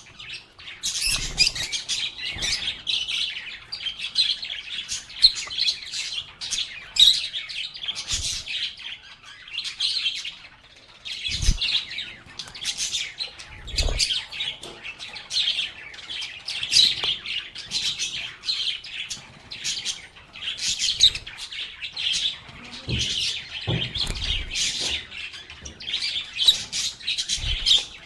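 A flock of lovebirds chirping and chattering continuously, with rapid, overlapping high chirps and squeaks. A few short low knocks sound now and then among the calls.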